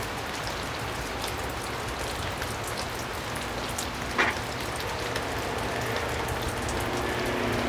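Steady rain pattering on a surface, with one sharp clink about four seconds in. A low steady hum comes in over the last couple of seconds.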